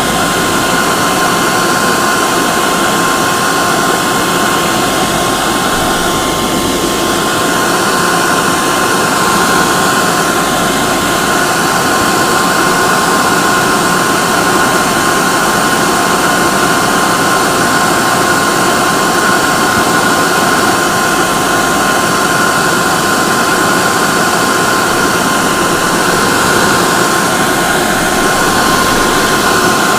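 Hair dryer running continuously: a steady rushing blow of air with a constant high whine from its motor and fan.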